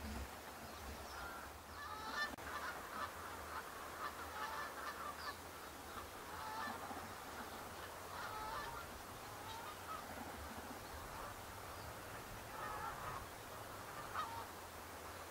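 A flock of geese honking, the calls coming in scattered clusters over a steady low rumble.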